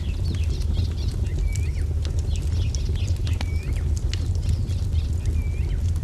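Wood fire crackling, with a steady low rumble and frequent sharp pops, under songbirds chirping; one bird repeats a short swooping call about every two seconds.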